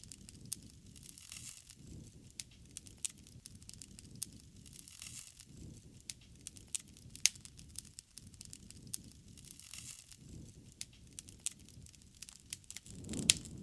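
Wood fire crackling: irregular sharp pops and snaps over a soft low rumble of the burning fire, which swells briefly near the end.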